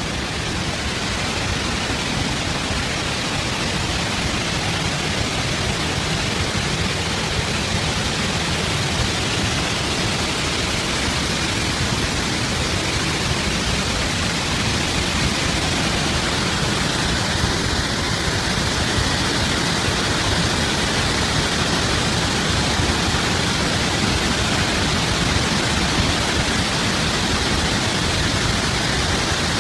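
Water discharging through the opened emergency spillway gates of Tarbela Dam: a loud, steady rushing noise that does not let up.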